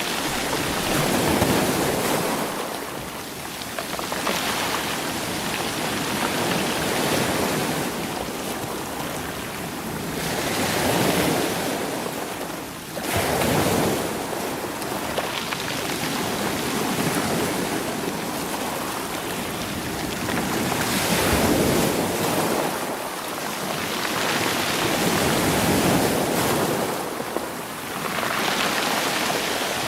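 Sea waves washing in against rocks and rolling stones, surging and drawing back every few seconds, with one sharp surge about halfway through.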